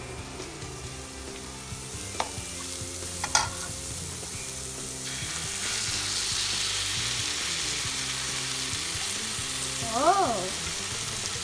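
Seasoned ground beef sizzling in a hot pan as queso cheese dip is stirred in, with two sharp knocks of the spoon against the pan a few seconds in. The sizzle grows louder about halfway through.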